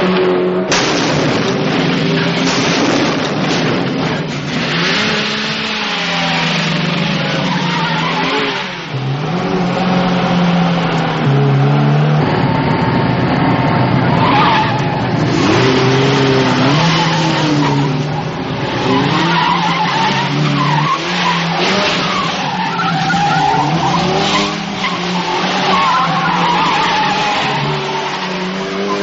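Car-chase soundtrack: the engines of a Ford Galaxie and a Dodge Coronet revving up and down, with tyres squealing again and again as the cars skid through turns.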